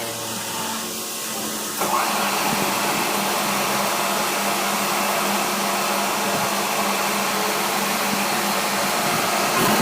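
A motor-driven machine starts up about two seconds in and runs steadily with an even whirring hiss over a low hum.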